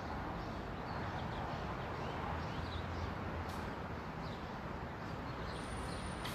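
Faint bird chirps, short and scattered, over a steady background hiss.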